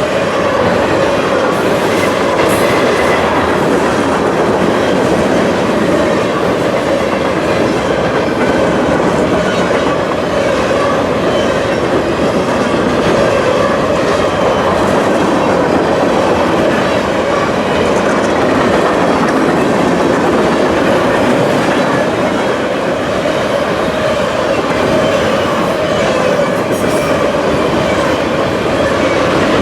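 A train's cars rolling past on the rails, with a steady clatter of wheels that holds at one level throughout.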